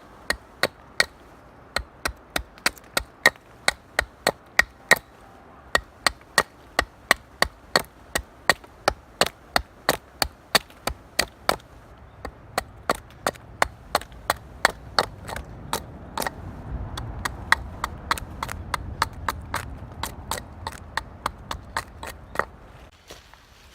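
Flint struck again and again against a fire steel to throw sparks onto char cloth: a steady run of sharp clicking strikes, about two to three a second. A low rumble rises under the strikes in the second half.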